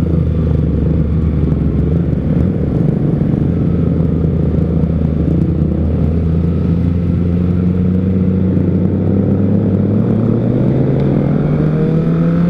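Kawasaki ZX-25R's inline-four engine breathing through an R9 Zeta exhaust while riding, holding a steady low pitch, then rising in pitch near the end as it accelerates.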